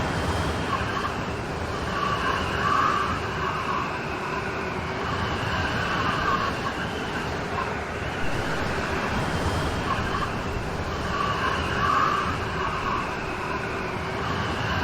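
Rain storm: a steady wash of heavy rain that rises and falls a little.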